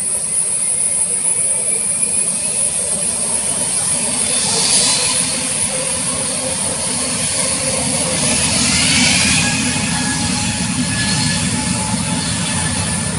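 Boeing 787 Dreamliner's jet engines running, a steady rushing noise with a constant high whine, and fainter whining tones that rise in pitch partway through.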